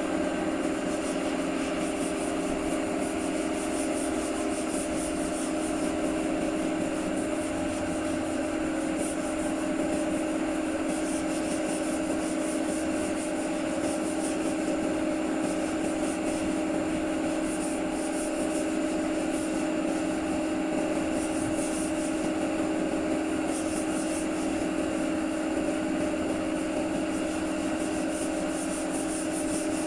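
Power sander running steadily on bodywork, a constant whine with a rough rubbing hiss.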